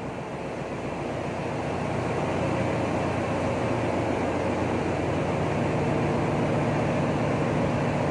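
Running machinery in a crude oil tanker's engine room: a dense, steady din of pumps and engines with a faint steady tone through it. It grows louder over the first two seconds, then holds level.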